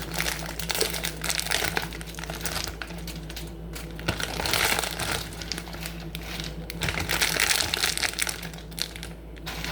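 Plastic food packaging crinkling and rustling in irregular bursts as it is handled, over a steady low hum.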